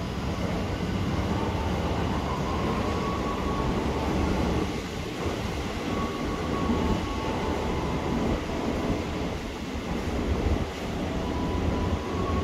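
Electric train running along the tracks at a station platform: a steady rumble, with faint high whining tones that come and go.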